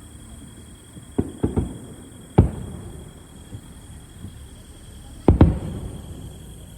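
Fireworks shells bursting overhead as a string of sharp booms: three quick ones about a second in, the loudest a second later, and a close pair near the end.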